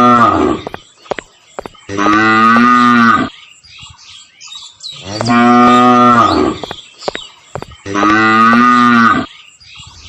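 Cattle mooing: long, low moos repeating about every three seconds, each lasting over a second.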